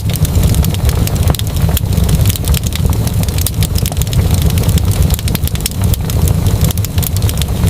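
Fireplace fire crackling: a dense, irregular run of small sharp pops and snaps over a steady low rumble.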